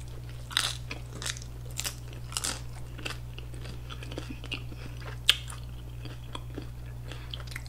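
Chewing a mouthful of crunchy hard-shell taco: crisp crunches roughly every half second for the first few seconds, then softer, sparser chewing clicks.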